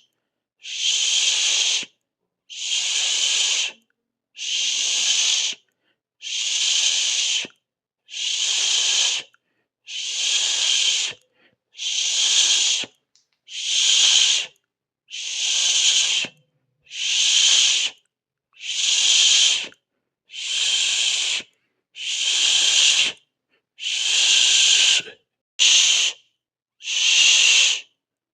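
A person hissing through the teeth, a long 'sss' or 'shhh' repeated over and over, about one hiss every second and a half to two seconds, each lasting about a second with silence between them.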